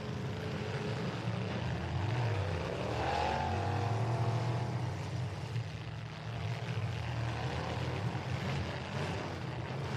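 Demolition derby truck engines running in the arena: a steady low rumble, with one engine revving up about two and a half seconds in and holding high for a couple of seconds, and another shorter rev near the end.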